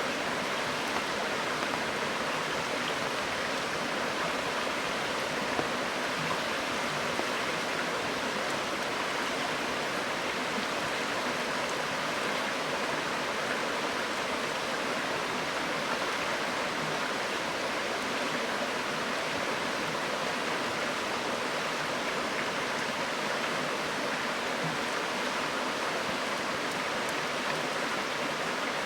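River water flowing in a steady rush, with a few faint pops from the campfire.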